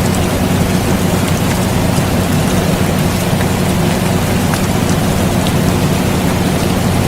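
Steady rain falling, with scattered drop ticks, over the low, even hum of an air conditioner running.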